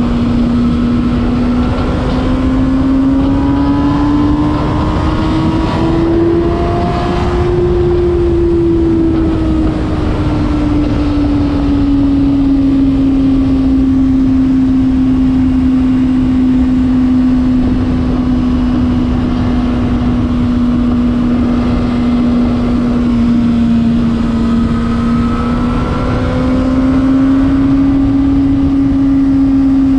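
Honda CBR600RR inline-four engine pulling at steady high revs while riding. Its note climbs for a few seconds and eases back about eight seconds in, then rises a little near the end, under a steady rushing noise.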